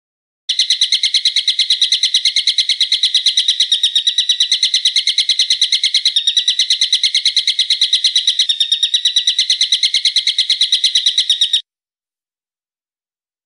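A bird calling in a long unbroken run of identical sharp, high notes, about seven a second. The run stops abruptly near the end.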